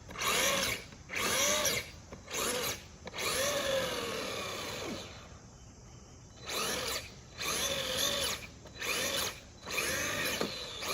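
Battery-powered electric motor of a radio-controlled truck revving in short bursts, about eight times, each whir rising and falling in pitch, with one longer run in the middle. The motor is being gunned to try to flip the overturned truck back onto its wheels.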